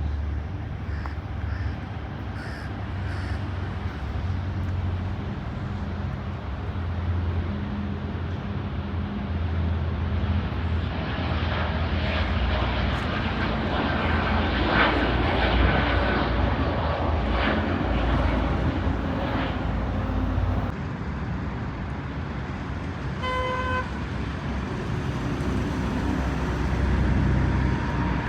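A jet airliner's engines pass by, swelling to their loudest about midway and then fading, over a steady rumble of road traffic. A vehicle horn gives a short toot near the end.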